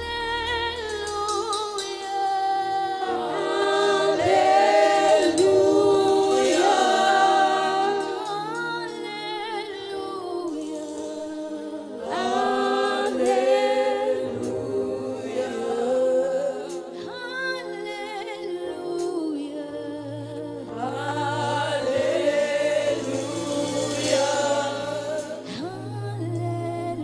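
Gospel worship singing: several voices holding long, harmonised notes, with a low steady bass tone joining in for the last several seconds.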